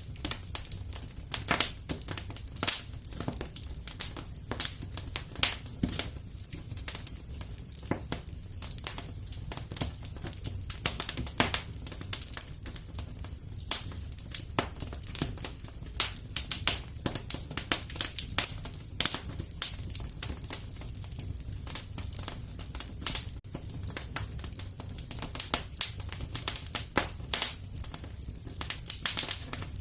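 Wood fire crackling in a fireplace: a steady low rumble of flame with many irregular sharp pops and snaps.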